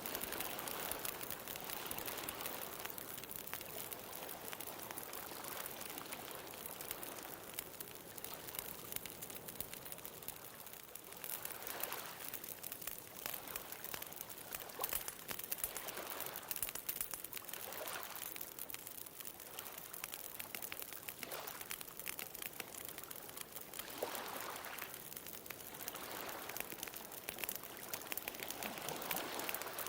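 Wood bonfire crackling with frequent small pops, over gentle ocean waves washing up the shore, a swell of surf every few seconds.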